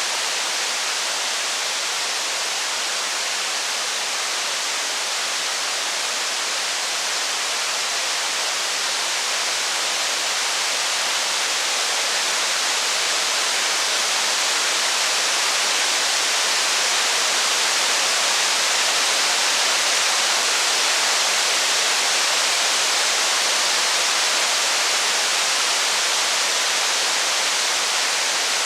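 Steady rain, an even hiss that swells slightly a little past halfway.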